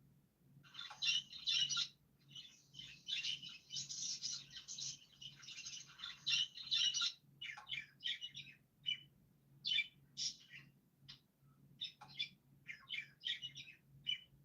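Birds chirping and twittering, a dense chatter of quick high chirps for about the first seven seconds, then shorter separate bursts of chirps. A faint steady low hum runs underneath.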